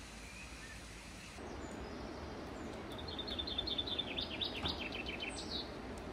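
A small songbird sings a quick phrase of short, high chirping notes, starting about three seconds in and lasting a couple of seconds, over a steady outdoor background hiss.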